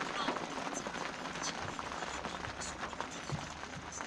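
Steady rain falling, with many scattered small drop ticks on a hard surface.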